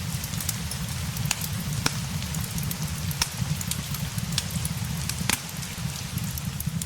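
Steady rain over a deep, steady low rumble, with the sharp crackles and pops of a wood fire scattered through it.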